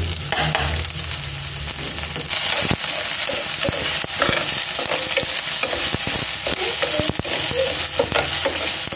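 Chopped onion and garlic sizzling in hot oil in a stainless steel frying pan, with a metal spoon clicking and scraping against the pan as it is stirred. The sizzle gets louder about two seconds in.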